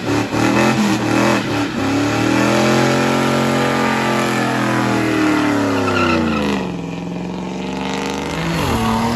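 Car engine revving hard. It is held at high revs for several seconds, rising and then falling slowly in pitch, then drops back, with a quick rev again near the end.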